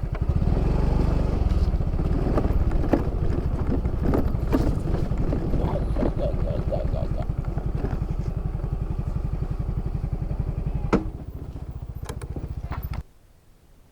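Yamaha Fazzio scooter's small single-cylinder engine running with a steady low pulse, with scattered light rattles and clicks. Its level drops about eleven seconds in, and the sound cuts off suddenly near the end.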